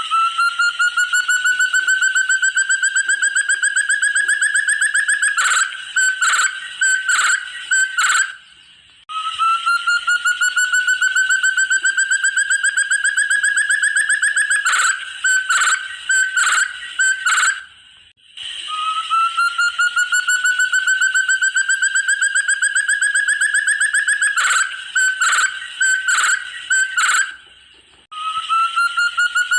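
Repeated call of the forest partridge known locally as burung terung or puyuh hutan. Each phrase is a rising trill of rapid notes lasting about five seconds, followed by a string of five or six separate sharp notes. The phrase repeats in near-identical form about every nine seconds, three times over.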